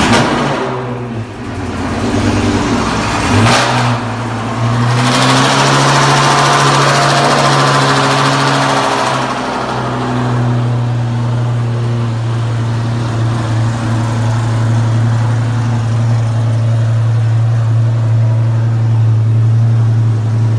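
Straight-piped Lamborghini engine just after start-up: a loud flare at the very start, a louder, rougher stretch at higher revs around five to nine seconds in, then it settles into a steady, deep idle.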